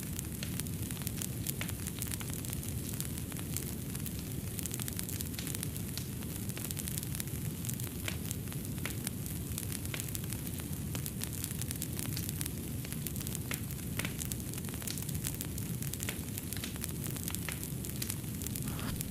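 Fireplace fire crackling: a steady low rumble of burning with many small, sharp pops and snaps scattered throughout.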